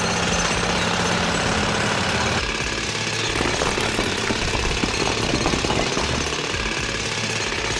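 Construction machine noise: a fast, steady mechanical rattle. A low hum under it drops away about two and a half seconds in.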